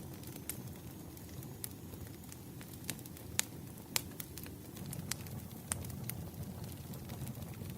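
Wood fire burning, with irregular sharp crackles and pops over a low steady rumble of flame. Two louder pops come a little past halfway through.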